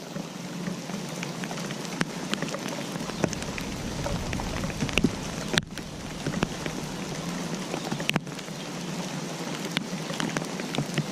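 Steady rain falling, with many distinct drops tapping sharply on a surface close by. A low rumble swells briefly around the middle.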